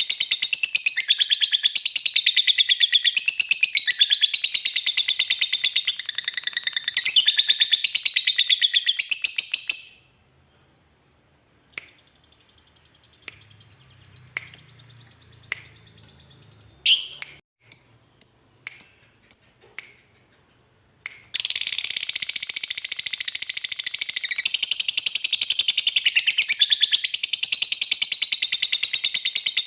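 Lovebird in a long, fast, high-pitched trilling chatter (ngekek). It breaks off about ten seconds in, a few sharp single chirps sound in the quiet spell, and the chatter starts up again about two-thirds of the way through.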